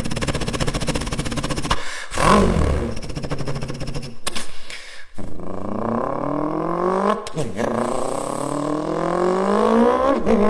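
Motorcycle engine in a run of short clips, cut sharply about two and five seconds in. In the last clip it accelerates hard through the gears: the pitch climbs, drops at an upshift, and climbs again, twice.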